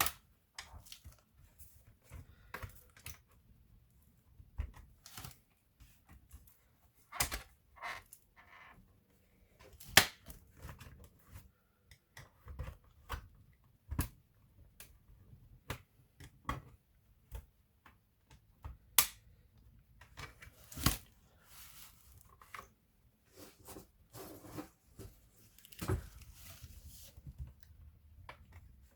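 Irregular clicks, taps and small knocks of laptop parts and small tools being handled during disassembly, with a few sharper knocks standing out among the lighter clicking.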